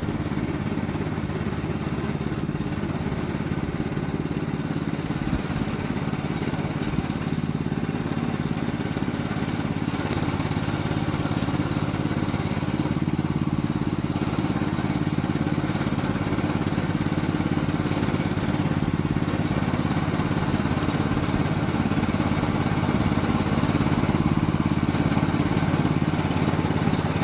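Gasoline engine of a hybrid remote-controlled slope mower running steadily at a constant speed, growing slightly louder near the end.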